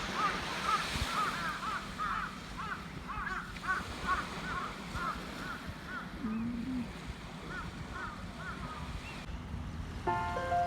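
A bird calling: a long, fast run of short whistled notes, several a second, that thins out and stops a little before music comes in near the end, over the low wash of surf.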